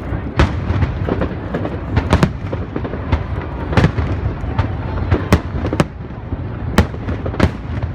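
Aerial fireworks display: sharp bangs and cracks at irregular intervals over a continuous low rumble of distant bursts.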